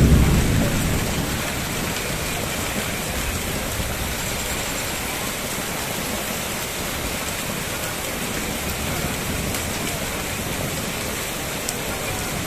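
Rain falling steadily on standing water in a flooded street, a dense hiss of drops striking the water surface. A low rumble fades out in the first second or so.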